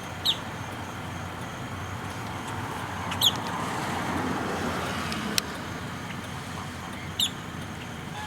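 Three short, high-pitched falling chirps from a bird, spaced a few seconds apart, over steady vehicle and road noise that swells and fades midway. A single sharp click is heard a little after the middle.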